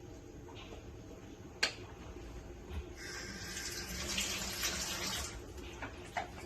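A sharp click, then water running from a tap into a sink for about two seconds before it is turned off.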